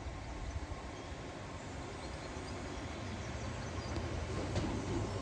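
Merseyrail Class 507 electric multiple unit approaching the station, its running noise a low rumble that grows steadily louder as it nears.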